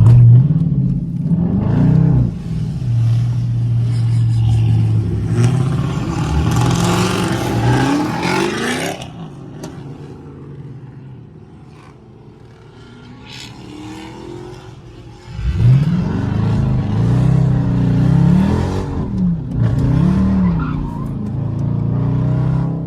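Dodge Charger R/T's HEMI V8 accelerating hard with revs rising, and a loud hiss of spinning, squealing tyres over it for a few seconds; the engine then falls away to a low level for about six seconds before a second hard run with revs rising and falling from gear to gear.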